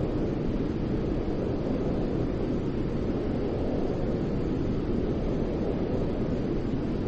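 Continuous white noise for infant sleep: an even, deep, rumbling hiss with most of its weight in the low end and no changes or events.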